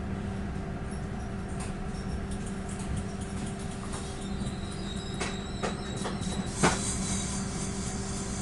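Passenger train carriage heard from inside: a steady low hum from the train's running equipment. From about halfway a thin high tone comes in, with a few sharp clicks and knocks; the loudest knock comes near the end.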